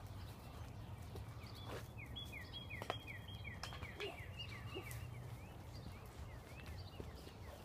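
A songbird sings a quick run of short down-slurred notes, about three or four a second, from about two seconds in for roughly three seconds. Beneath it are a steady low rumble and scattered clicks and footfalls.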